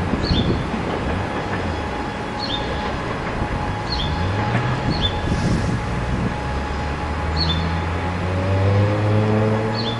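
NS DD-AR double-deck electric train pulling away, rumbling on the track. Near the end a hum from its electric drive rises in pitch as it picks up speed.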